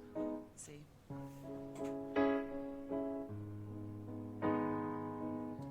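Piano playing slow, held chords that change about once a second, the opening of a slow blues song.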